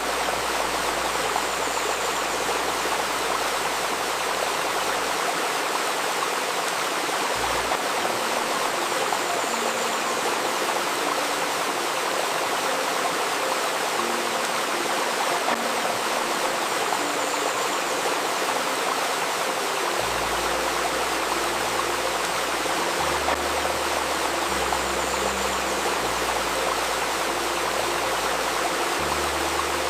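A river babbling over stones, a steady rush of water, with a soft low synthesizer drone layered under it that shifts notes every few seconds. A faint steady 528 Hz tone sits in the mix.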